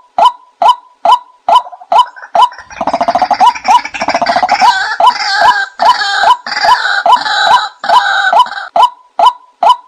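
Calls of the bird the title names nok kai na (ไก่นา), played as a lure: short, loud notes repeated about twice a second, with a busier burst of overlapping, higher calling from about three seconds in until near the end.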